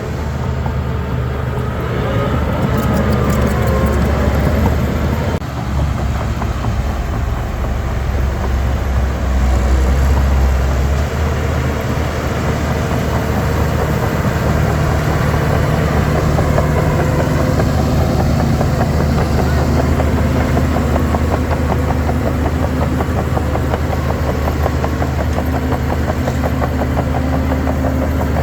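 Heavy diesel machinery engines running steadily, as a bulldozer and dump trucks work. The engine sound swells louder for a couple of seconds about a third of the way in.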